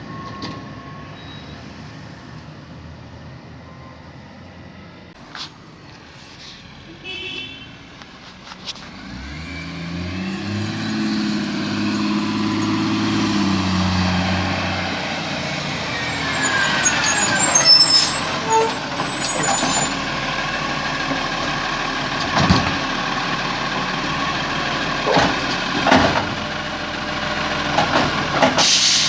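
Garbage truck arriving: the diesel engine comes up in pitch after a quiet start, and its air brakes hiss about halfway through. A series of sharp clunks follows, the loudest near the end.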